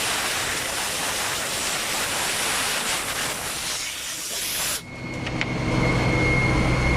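Vacuum excavator's suction running with a loud, even rushing hiss that cuts off suddenly a little under five seconds in. After the cut-off the truck's engine and blower keep running as a low steady hum with a steady high whine.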